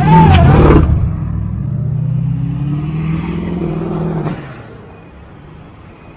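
A car engine revving loud in the first second, then accelerating with a rising pitch. The engine sound drops away sharply about four seconds in.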